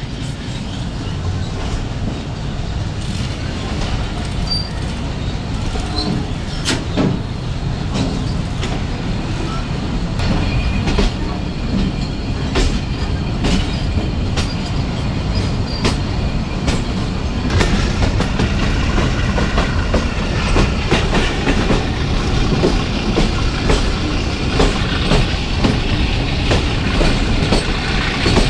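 Passenger train wheels clacking over rail joints as the train picks up speed. The clacks are sparse at first and come closer together later, and the rumble grows louder throughout.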